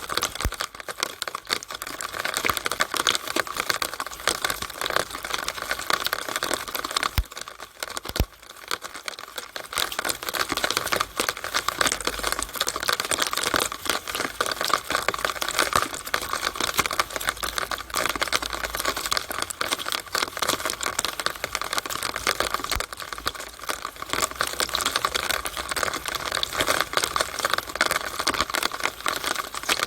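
Rainwater running down a downspout, a dense steady patter of small splashes and ticks that eases briefly about eight seconds in.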